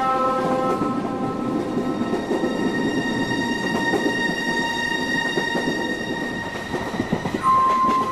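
A moving passenger train rumbling and clattering on the rails, with steady high tones held over it.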